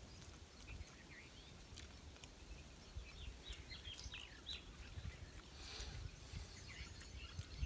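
Faint outdoor ambience: small birds calling with scattered short chirps over a low rumble.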